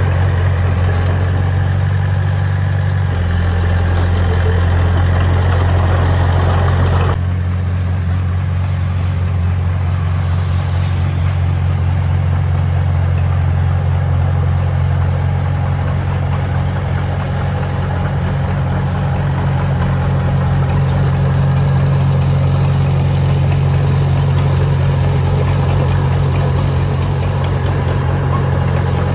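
Diesel engine of heavy construction machinery running steadily with a low hum. The note shifts about three seconds in, and the engine eases off about seven seconds in, the higher clatter dropping away.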